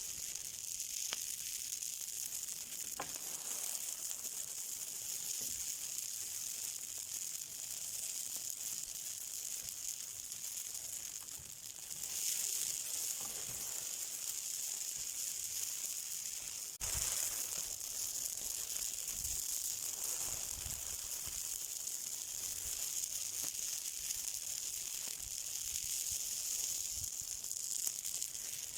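Fire burning with a steady, high sizzling hiss and a few faint crackles; it gets a little louder about twelve seconds in.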